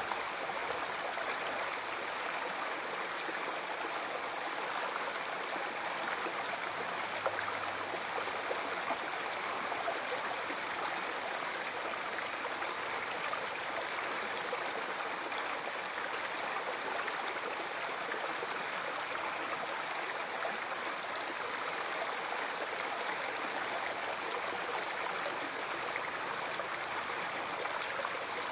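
River water flowing, a steady rushing babble that doesn't change.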